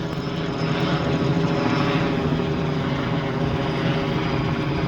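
A steady engine drone with a constant pitch.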